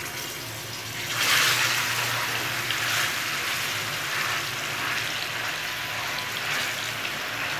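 Yogurt-marinated chicken frying in hot oil in a pan, a steady sizzle that swells about a second in as the chicken goes into the oil.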